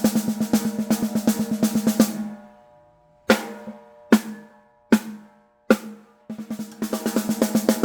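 Blacksmith MSD1 13x6.5 hammered steel snare drum: fast, even strokes that stop about two seconds in and ring out, then four single hits, each followed by a clear ringing tone, before the fast strokes start again near the end.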